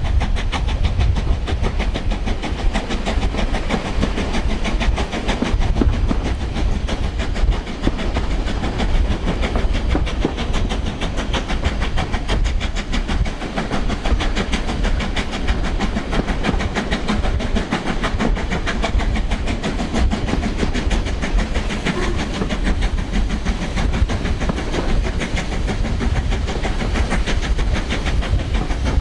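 LMS Black Five 44932, a two-cylinder 4-6-0 steam locomotive, working a train with a steady, rapid regular beat of exhaust, along with the clatter of the coaches' wheels on the rails.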